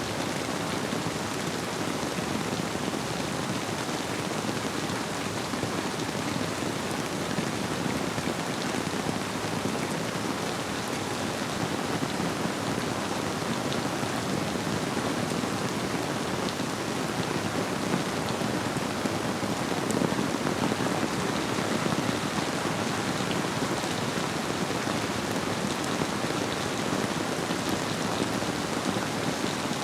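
Steady rainfall pattering down, mixed with the flow of a river, an even hiss that holds constant throughout.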